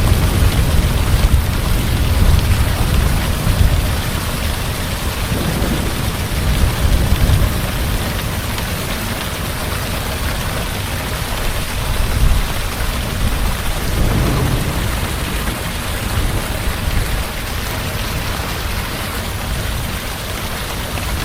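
Heavy rain falling steadily in a thunderstorm, with low rolling thunder that is heaviest in the first few seconds and swells again about two-thirds of the way through.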